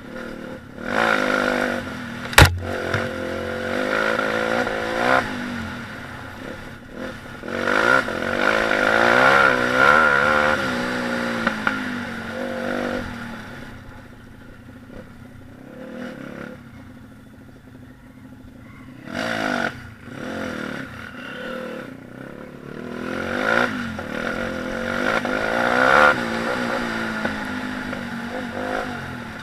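Small pit bike engine revving up and falling back several times while riding, with a sharp knock about two seconds in. It is quieter for a few seconds in the middle, then revs up again.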